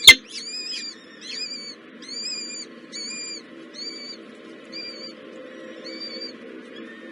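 A bird giving a series of about ten high, arched calls that slow and fade, after a sharp click right at the start.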